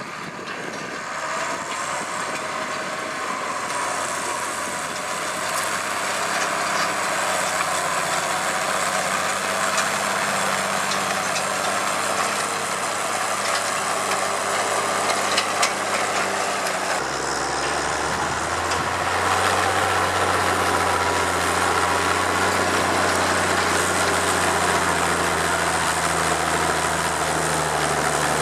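Case IH 1455 XL tractor's diesel engine working under load, pulling a seven-tine stubble cultivator. It grows louder over the first several seconds, then runs steadily; about two-thirds of the way through, a deep low hum comes in suddenly and stays.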